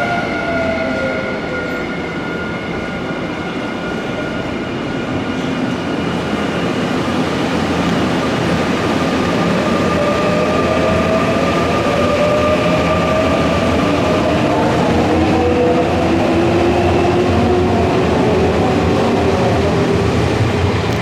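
Nankai electric train at the platform, its traction motors whining over the rumble of wheels and running gear. The pitch dips near the start, then climbs steadily through the second half as the train accelerates away.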